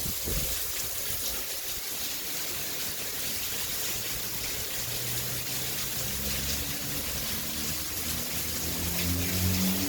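Heavy rain falling with a steady hiss. About four seconds in, an engine's hum comes in and rises slightly in pitch near the end.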